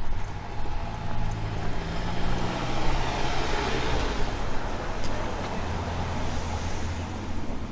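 A motor vehicle passing, its tyre and engine noise swelling to a peak about four seconds in and then easing off.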